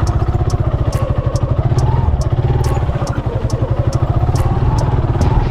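Single-cylinder motorcycle engine running while riding off-road, its pitch rising and falling with the throttle, with irregular sharp clicks over it.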